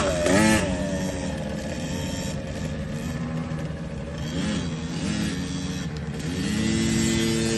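KTM motocross bike engines revving on a dirt track, the pitch rising and falling with the throttle, then held at a steady higher pitch from about six seconds in.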